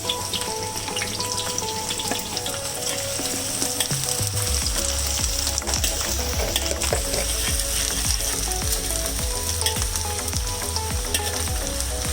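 Onions frying in hot oil in a pan, sizzling steadily, with the clicks and scrapes of stirring. A low hum comes in about four seconds in.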